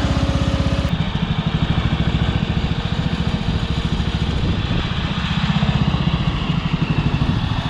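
Briggs & Stratton 11-horsepower lawn mower engine running with a steady firing rhythm, on its freshly cleaned carburetor. The sound shifts slightly about a second in.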